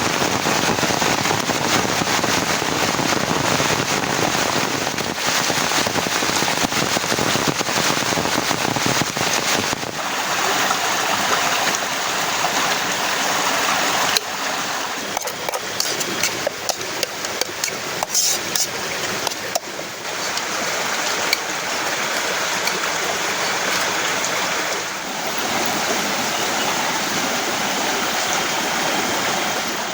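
Heavy rain pouring down: a dense, steady hiss full of sharp drop impacts. Its character shifts abruptly about ten seconds in and again near fourteen seconds.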